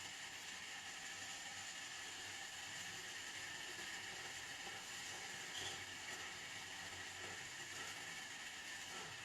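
Faint steady hiss of background noise, with one small soft knock about five and a half seconds in.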